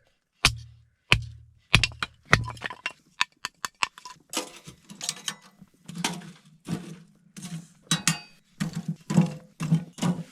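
Dry kindling being snapped and fed into a small wood stove to relight the fire: sharp cracks about every half second at first, then a faster, irregular clatter of wood knocking against the stove's metal.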